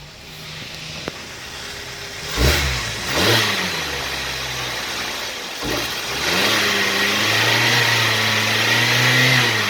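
2014 Hyundai Sonata engine with about 94,000 miles running in a run test. It is blipped twice about two and a half and three seconds in, settles lower, then is revved up from about six seconds in and held at raised revs until near the end.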